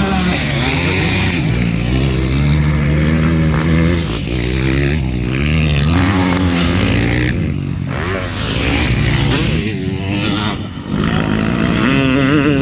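Several motocross bikes racing, their engines revving up and down as the riders shift and work the throttle, with pitch rising and falling over and over and more than one bike heard at once.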